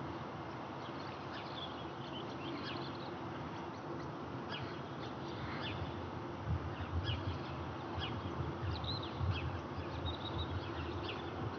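Small birds chirping, many short falling calls, over a steady background hiss. From about six seconds in, a low, uneven rumble comes in and grows.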